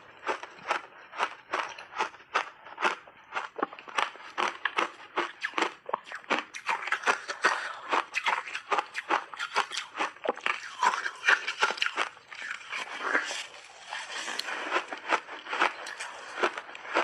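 Close-up crunching of frozen flavoured block ice being bitten and chewed, a rapid, irregular run of sharp cracks and crunches several times a second.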